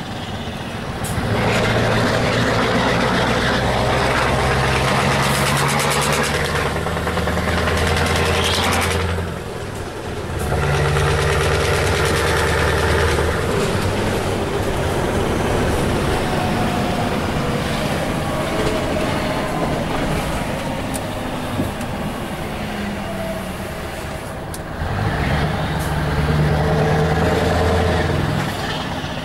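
Scania R truck engine pulling hard under load through its open free-flow exhaust, dropping off briefly about ten seconds in, easing to a quieter run through the middle, and pulling strongly again near the end.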